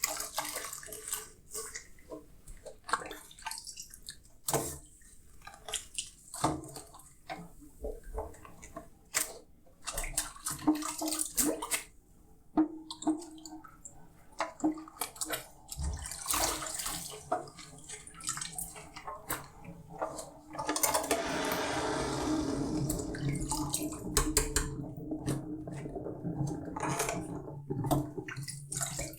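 Dishes being washed by hand in a sink: scattered clinks and knocks of crockery with short splashes of water. About two-thirds of the way in, a tap is turned on and runs steadily.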